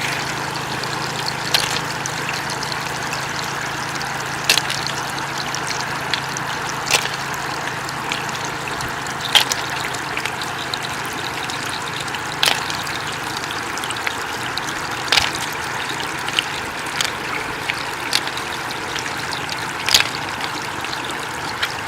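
Floodwater running and trickling steadily, with short sharp knocks every one to three seconds.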